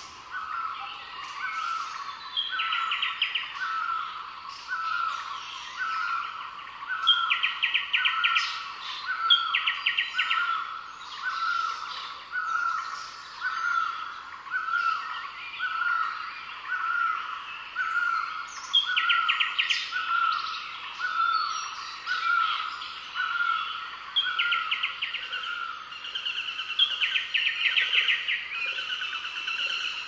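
Several birds singing together. One bird repeats a short, slightly falling note about once a second, while others add rapid trills about a second long, several times over, and scattered chirps.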